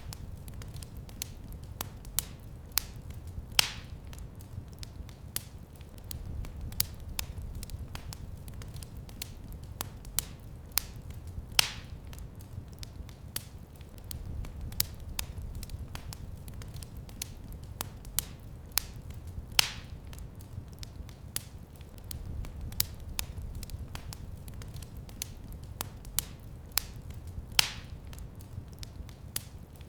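Wood fire crackling in a fireplace: frequent small clicks and snaps over a low steady noise from the flames, with a louder pop about every eight seconds.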